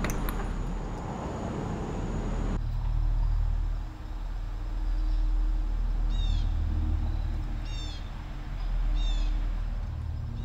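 Outdoor street ambience cuts off about two and a half seconds in. It gives way to a low rumbling drone that swells and fades. Over the drone, a bird repeats a short burst of three or four quick downward-sweeping chirps about every one and a half seconds.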